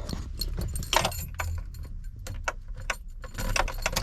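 A bunch of keys jangling and clinking in the hand, with irregular metallic clicks.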